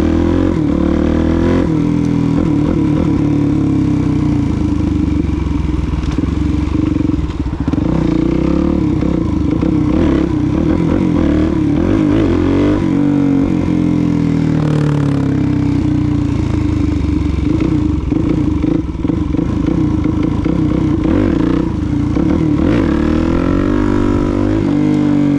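Suzuki DR-Z400SM's single-cylinder four-stroke engine running under way, revs rising and falling several times as the bike accelerates and shifts.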